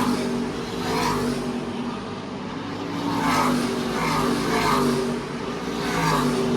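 NASCAR Truck Series race trucks' V8 engines running at speed as the field passes, the sound swelling and fading as groups of trucks go by.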